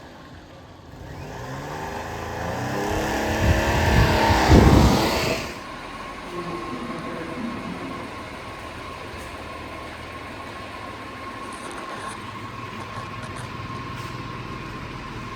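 A vehicle engine revving up, rising in pitch and getting louder to a peak about five seconds in, then dropping back to a steady, quieter running sound with a constant whine.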